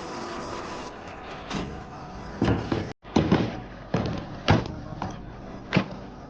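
A run of sharp, irregular knocks and clunks, about eight in all, over a steady background hum, with a brief cut to silence around three seconds in.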